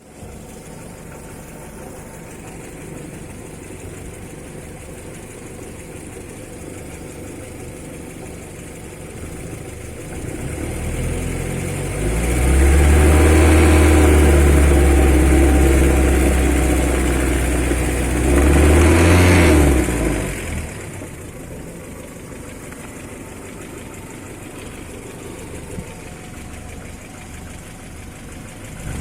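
Engine idling steadily, then revved up about ten seconds in and held at high speed for several seconds, blipped once more and dropped back to idle.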